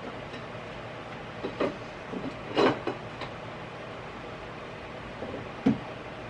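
Belongings being handled and set down during unpacking: a few short knocks and thuds, the loudest about two and a half seconds in and one more sharp knock near the end, over a steady background hiss.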